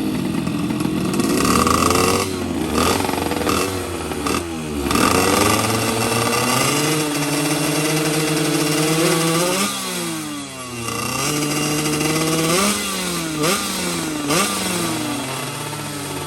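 Two-stroke underbone racing motorcycle engine revving, its pitch climbing and falling. In the second half it gives several quick throttle blips.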